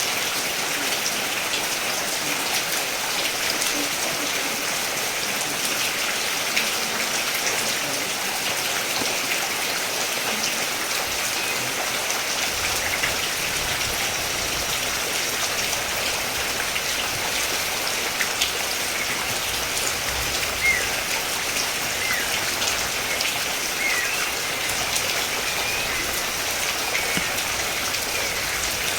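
Steady rain: a dense, even patter with individual drops ticking sharply through it. A faint low rumble joins about a third of the way in.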